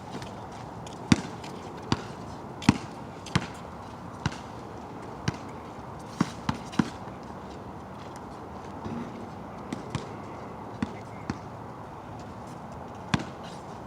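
Basketball bouncing on a wet outdoor court: about a dozen sharp, irregularly spaced bounces, with a quick cluster of three around six seconds in, over a steady hiss of rain.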